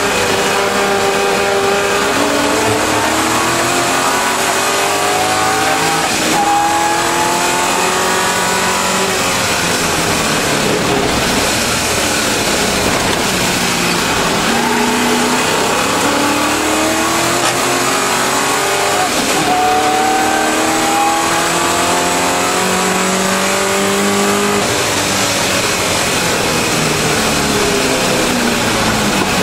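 Triumph TR7 race car's V8 engine heard from inside the cabin at full race pace. It climbs in pitch through the gears several times, each climb ending in a sudden drop at the gear change, then falls in pitch near the end as the car slows. Wind and road noise run steadily underneath.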